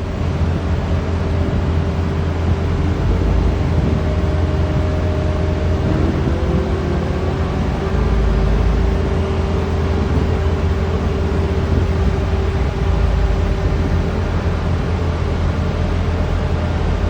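Heavy diesel construction machinery running steadily: a deep engine drone, with a fainter higher whine holding one pitch through the first half.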